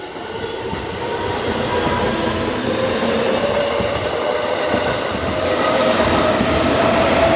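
An electric train approaches along the rails and runs past, growing louder over the first couple of seconds. Wheel-on-rail rumble carries faint high whines over it.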